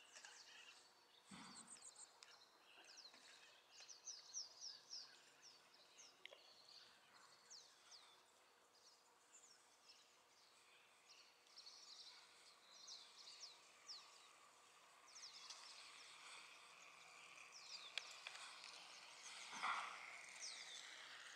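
Faint outdoor ambience with small birds chirping: many short, high notes that fall in pitch, scattered throughout. A soft knock about a second in and a short louder noise near the end.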